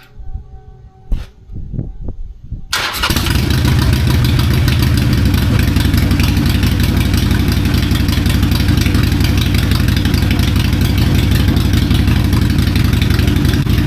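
Harley-Davidson Sportster 883's air-cooled V-twin engine starting after a click, firing up about three seconds in and then idling steadily. It is being warmed up after an engine and primary oil change so the oil level can be checked hot.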